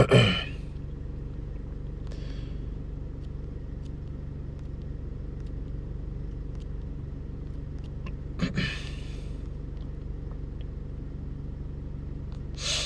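A steady low mechanical hum, with a few brief rustling noises about two seconds in, past the middle and near the end.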